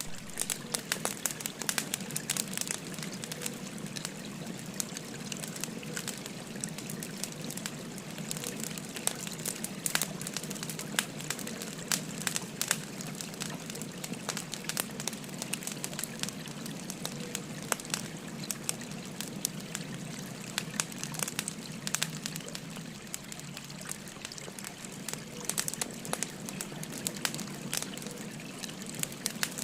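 Wood fire crackling, with frequent sharp pops and snaps, over the steady babble of a flowing river.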